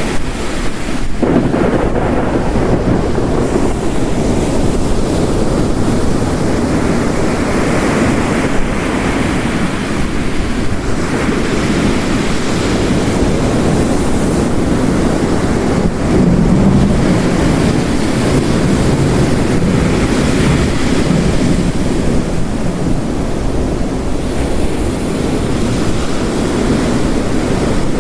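Layered storm ambience: ocean waves crashing on a rocky shore under the steady noise of heavy rain, the surf swelling and easing, with a louder low surge about halfway through.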